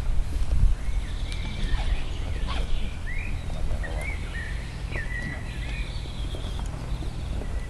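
Small birds chirping, many short rising and falling calls, over a steady low rumble.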